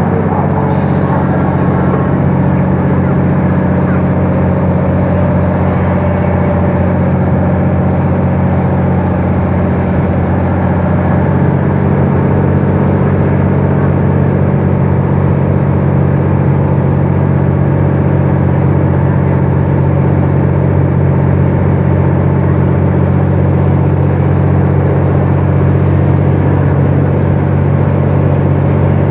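Diesel locomotive of a passenger train running steadily at a station, a deep, even engine drone. It grows slightly louder about a third of the way in.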